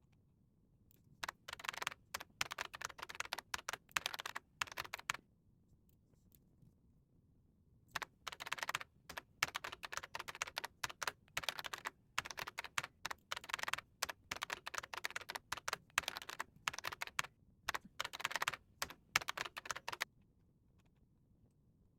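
Typing on a computer keyboard in fast runs of keystrokes: a burst of about four seconds, a pause of nearly three seconds, then about twelve seconds of steady typing that stops near the end.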